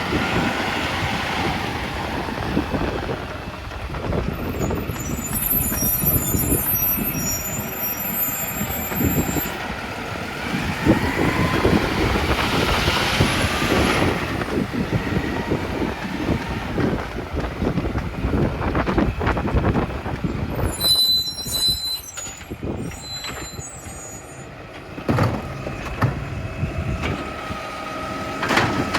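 New Way Sidewinder side-loader recycling truck running and working, with air-brake hissing and repeated clanks and knocks. A rising whine comes about twelve seconds in, and a steady tone near the end.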